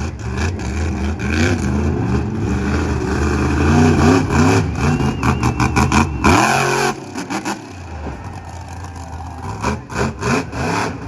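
Monster truck engine revving hard, rising and falling in pitch, then cutting off about six seconds in with a loud rushing burst. Sharp irregular cracks and pops follow. The truck appears to have broken during its run.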